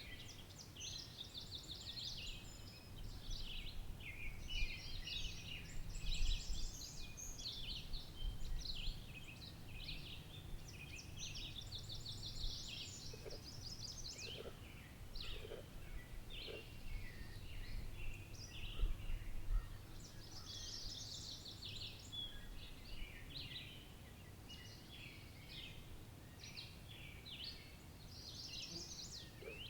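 Chestnut-sided warblers singing and calling, high rapid phrases one after another, over a low steady outdoor rumble.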